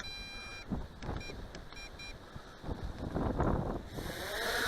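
Electronic beeps, one longer beep and then three short ones, over wind buffeting the microphone. Near the end the quadcopter's motors spin up into a rising whine.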